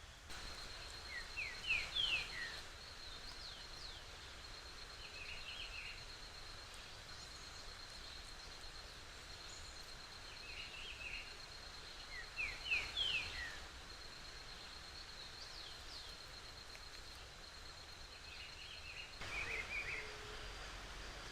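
Forest ambience: an insect trilling steadily on one high note, while a bird calls in short bursts of quick descending whistled notes, loudest about two seconds in and again about halfway through, with softer chirps between.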